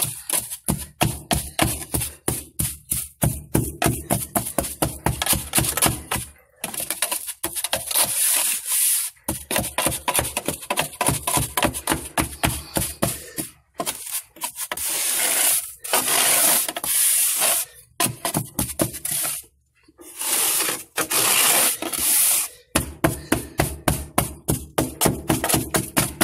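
Coarse salt being spread by hand inside a fireplace base: quick, repeated gritty scraping strokes, with several longer hissing stretches in the middle as the salt is worked.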